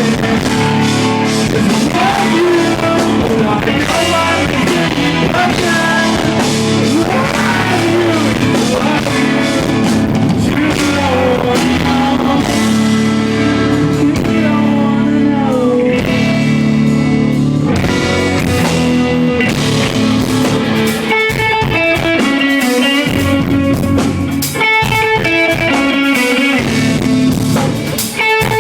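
Live rock band playing loud: singing over electric guitar and drum kit. About 21 seconds in, the low end drops back and a picked guitar line stands out.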